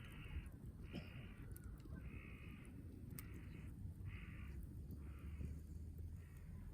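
A crow cawing repeatedly, about one harsh caw a second, seven in all, the last ones fainter. A few faint pops from the campfire sound under them.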